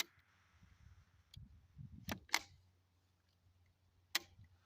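A few faint mechanical clicks from handling a .22 rimfire rifle: one at the start, two about two seconds in and another near the end.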